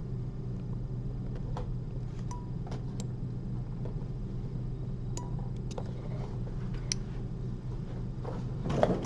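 Faint, scattered clicks and clinks of metal surgical instruments handled during suturing, over a steady low hum, with a brief louder sound near the end.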